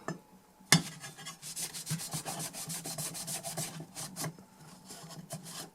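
Quick back-and-forth scrubbing strokes cleaning dirt off the DI box, several a second and fading toward the end, with one sharp knock about a second in.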